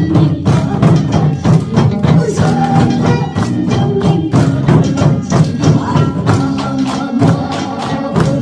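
A trot song playing with janggu hourglass drum strokes beating along in a steady, dense rhythm.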